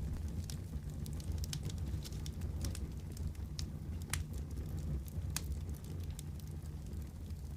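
Fireplace wood fire burning with a steady low rumble and frequent irregular crackles and pops, a few of them louder and sharper.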